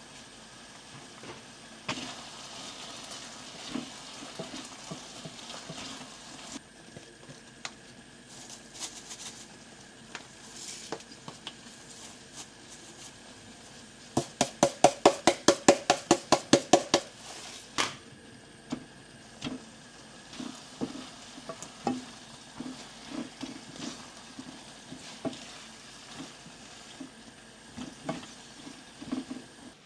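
Kitchen cooking sounds: food sizzling lightly in a pan, then a loud run of about eighteen quick, evenly spaced knocks of a utensil midway, followed by scattered taps and clinks of utensils against cookware.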